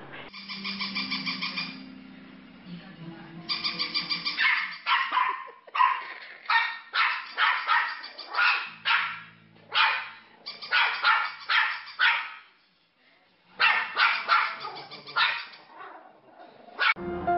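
A small dog yipping in quick runs of short, high-pitched yelps, with a brief pause about two-thirds of the way through.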